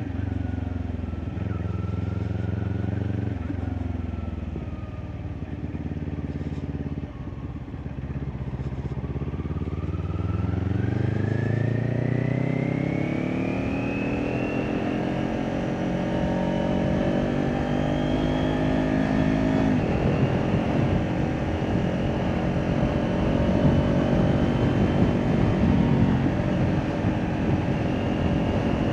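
Kawasaki Ninja 400's parallel-twin engine through an Akrapovic exhaust. It holds a steady low note for several seconds, then accelerates from about nine seconds in with the pitch rising. In the last third, rushing wind noise builds over the engine.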